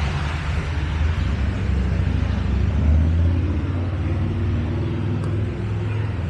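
Low rumble of a motor vehicle going by, swelling a little past the middle and easing near the end, over a steady hiss of river and wind.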